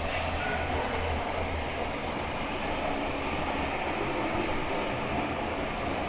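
Model trains running on a museum layout: a steady electric-motor whirr and wheel rumble on the track, with an uneven low throb underneath.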